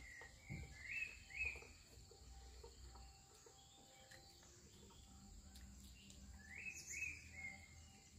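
Faint outdoor ambience: a bird gives a short phrase of chirps about a second in and again near seven seconds, over a steady high insect drone.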